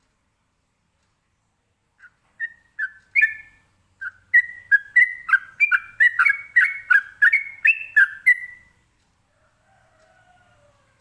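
Yellow-vented bulbul (trucukan) singing a rapid run of short, clear whistled notes, a few a second, starting about two seconds in and stopping a couple of seconds before the end.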